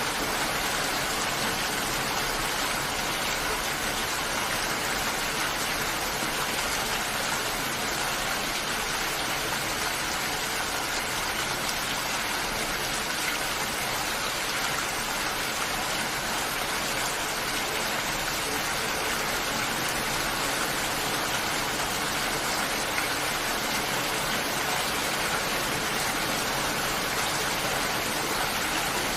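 Steady rain falling, an even unbroken hiss with no separate drops or pauses standing out.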